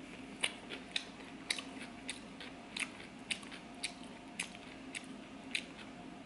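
Close-miked chewing of a mouthful of sushi roll: wet, crunchy mouth clicks about twice a second, unevenly spaced.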